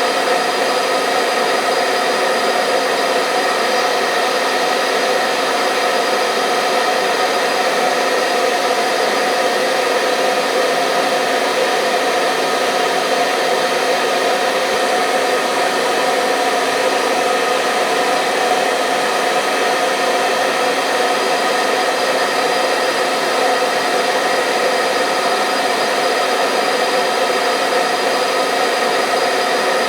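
Electric hair dryer running steadily on one setting: an even, unchanging whoosh of blown air with a motor hum, played as white noise to lull a baby to sleep.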